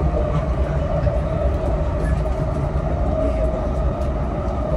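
Running noise of a JR East E233-0 series electric train heard from inside a motor car: a steady rumble of wheels on rail with a steady hum as the train runs at an even speed.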